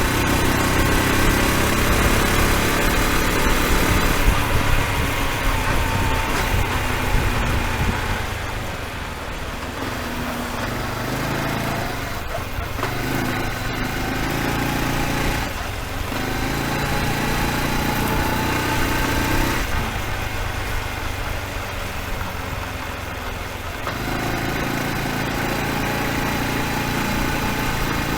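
Honda Super Cub's single-cylinder four-stroke engine running, its speed dipping and picking up again a few times. There is no clicking in it: the fault that the owner thinks came from the piston hitting something is cured.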